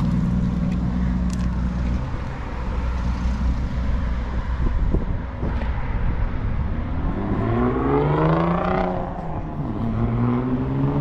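A motor vehicle's engine. A steady low hum in the first couple of seconds, then about seven seconds in the engine rises in pitch, drops back, and rises again near the end, as when a vehicle accelerates through a gear change.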